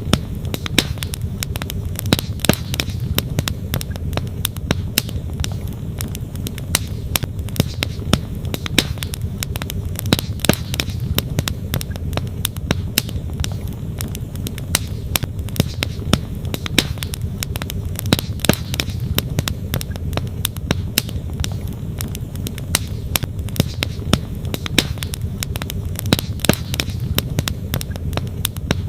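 Campfire wood crackling, with frequent sharp irregular snaps and pops, over a steady low rush of flowing stream water.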